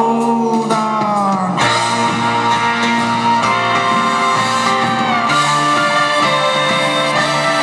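Live rock band playing an instrumental passage without vocals, sustained chords changing twice.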